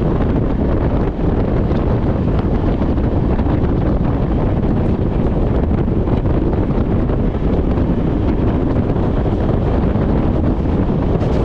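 Steady wind buffeting the microphone over the rumble of a moving passenger train.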